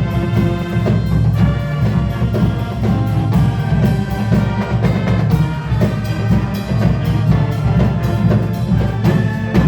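Marching band playing: sustained brass-like chords over drums and timpani, with frequent percussion hits.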